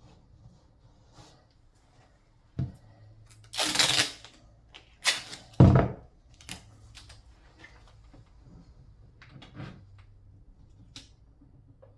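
Hand-work handling noises: scattered knocks and clicks, two louder noisy scraping bursts of under a second each about four and five seconds in, and a sharp knock right after the second.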